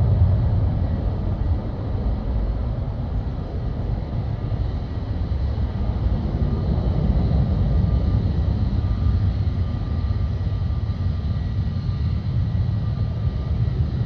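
Jet airliner engines: a steady, loud low rumble with a faint high whine that grows clearer about halfway through.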